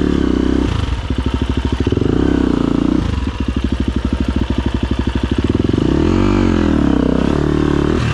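Husqvarna FE250 single-cylinder four-stroke enduro motorcycle engine running under load, its revs surging up and down as the throttle is worked, with one sharp rev up and back down about six seconds in.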